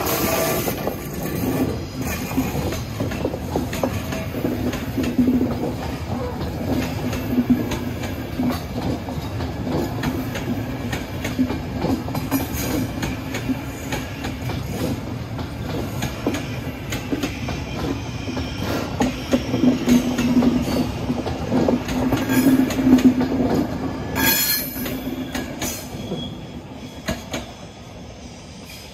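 Passenger train passing close by, its wheels clattering rapidly over the rails with some wheel squeal; the noise dies away near the end.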